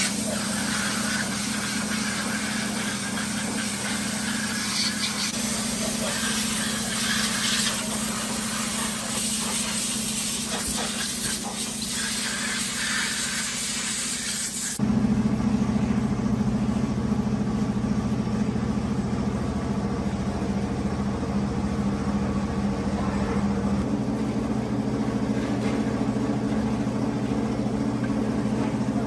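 Truck engine running steadily at a constant speed, with a hiss over it in the first half. About halfway through, the sound changes abruptly to a heavier, deeper run without the hiss.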